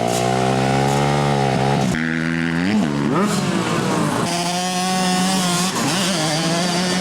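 Motocross motorcycle engine running at high revs. The pitch dips and climbs sharply about three seconds in, then holds steady again.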